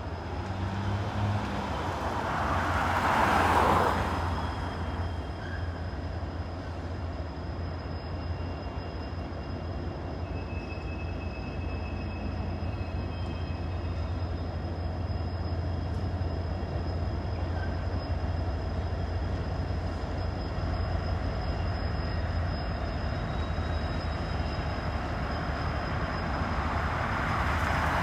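CSX freight train rolling past with a steady low rumble of cars on the rails. There are two louder swells, one about three seconds in and one near the end.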